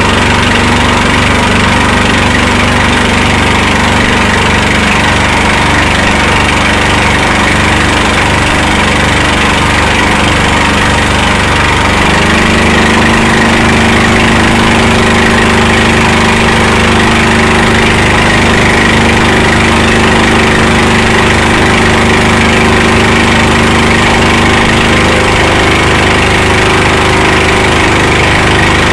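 Motorboat engine running steadily, its pitch shifting to a new steady note about twelve seconds in.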